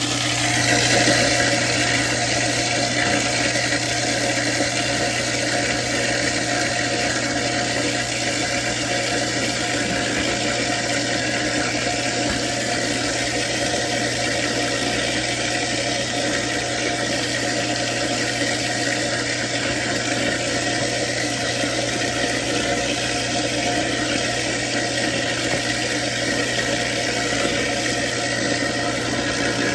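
Kitchen garbage disposal running steadily, a constant motor hum under a rough whirring noise.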